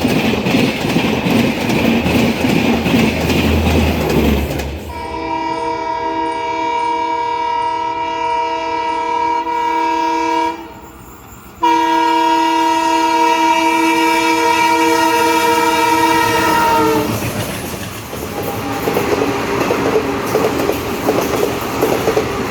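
An Indian Railways ALCO diesel locomotive and its train running past with a rolling clickety-clack. About five seconds in comes a long multi-tone horn blast, broken by a second-long gap, with its pitch dropping at the end as it passes. Then train running noise again.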